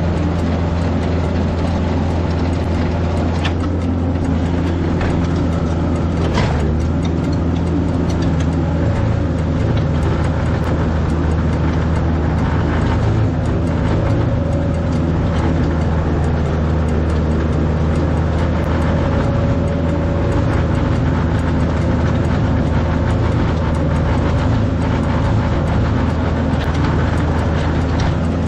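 Kubota farm tractor's engine running steadily, with a couple of brief knocks a few seconds in.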